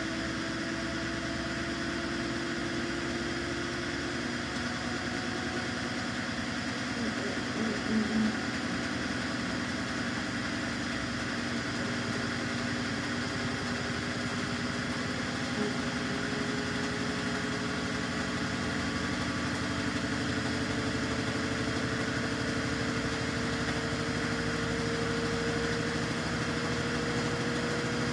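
Samsung washing machine running mid-cycle: a steady mechanical hum whose main tone rises slowly in pitch, with a brief slightly louder patch about eight seconds in.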